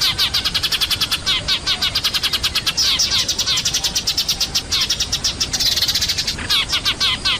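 A flock of Eurasian tree sparrows chattering noisily in a dense, rapid stream of short chirps, used as a lure call to bring sparrows down. About six seconds in, the chirps briefly blur into a hiss.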